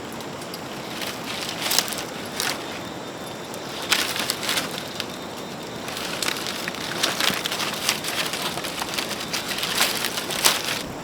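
Fire crackling and snapping over a steady hiss, with irregular louder pops.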